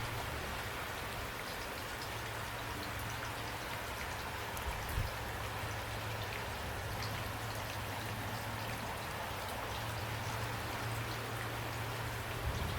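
Steady rain falling, a continuous hiss of rainfall with scattered individual drops ticking on a surface.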